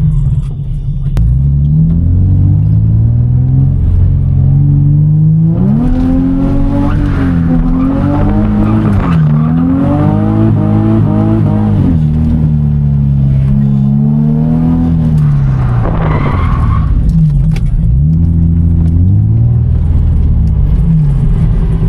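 Infiniti G35's V6 engine revving hard up and down through a drift run, its pitch rising and falling again and again. Tyres squeal through the middle of the run, with a sharp screech about sixteen seconds in.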